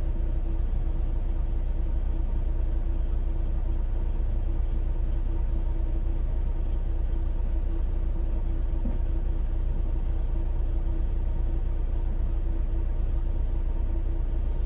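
Semi-truck idling, heard from inside the cab: a steady low rumble with a constant hum.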